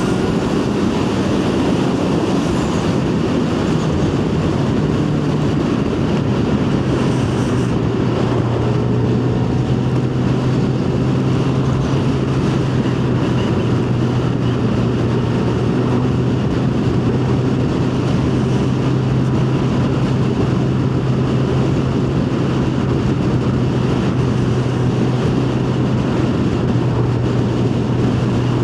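Yamaha FZ1's inline-four engine running at speed under a steady rush of wind noise. The engine note drops about six seconds in, then holds steady.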